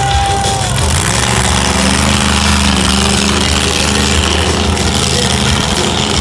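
Big-block Chevy V8 of a monster truck running loud and steady with a constant low drone, the truck working in the arena during a donut run. A held higher tone from before fades out under it shortly after the start.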